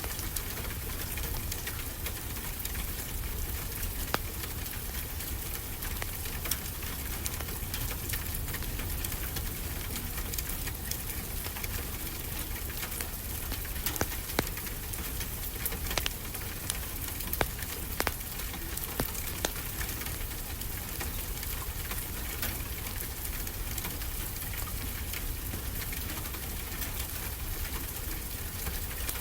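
Steady rain hissing, with a low rumble and scattered sharp crackles and pops from a wood fire, a few louder pops near the middle.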